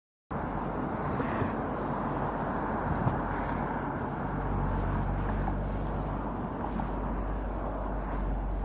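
Steady tyre and wind noise of a car driving on an expressway, picked up by a roof-mounted camera, with a low hum underneath. The sound cuts in abruptly just after the start.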